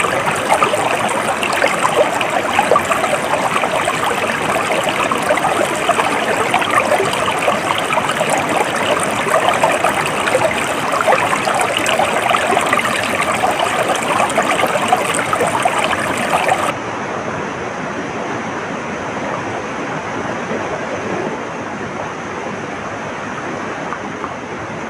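A stream of water flowing and splashing in a busy, lively rush. About two-thirds of the way through, it cuts abruptly to a quieter, duller and steadier rushing noise, like a different water recording spliced in.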